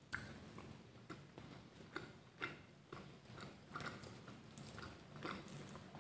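Close-up mouth sounds of eating: a crisp bite into a battered fried piece just at the start, then chewing with soft, irregular crunchy clicks.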